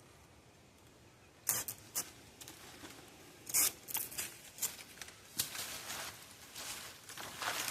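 Irregular rustling, crackling and scraping from covering material being handled and fitted over the front of a teepee-style smoker frame. It begins about a second and a half in and goes on in uneven bursts.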